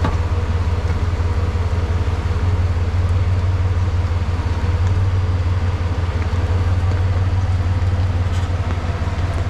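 A four-wheel drive's engine running steadily at low revs, a deep even drone, as the vehicle crawls slowly along a rough, tilted track.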